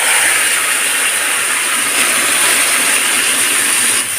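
Marinated chicken pieces sizzling in hot oil in a kadai, just after being dropped in: a loud, steady, high hiss that cuts off suddenly near the end.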